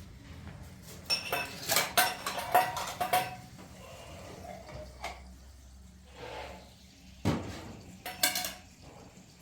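Dishes and cutlery clinking and ringing against each other in a quick run of handling sounds, with a single duller knock about seven seconds in and a few more clinks just after.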